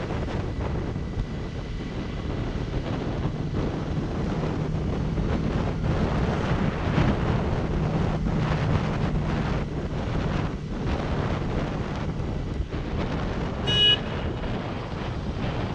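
Motorcycle riding along with heavy wind buffeting the microphone over a steady low engine hum. A brief high beep sounds near the end.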